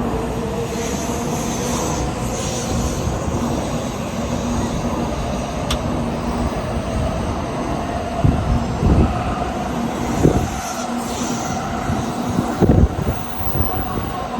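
Shinkansen train running alongside the platform, a loud steady rumble with a faint rising motor whine. Several low thumps come in the second half.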